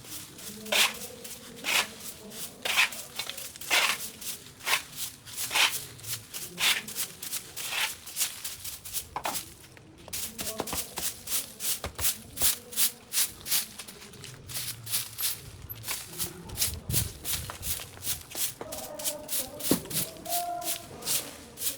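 Repeated sharp strokes of a hand tool cutting or hacking through overgrown vines and brush. The strokes come about one a second at first, then quicken to about three a second after roughly ten seconds.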